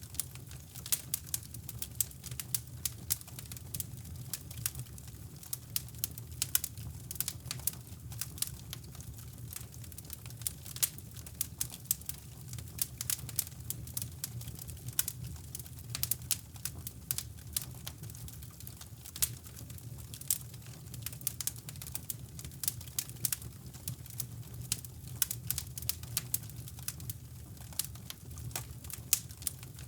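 Wood fire crackling in a fireplace, with irregular sharp pops and snaps, over a steady low brown-noise rumble.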